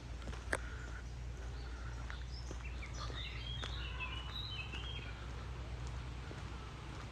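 A small bird gives a quick burst of high chirps in the middle, over a steady low rumble, with a few sharp clicks, the loudest about half a second in.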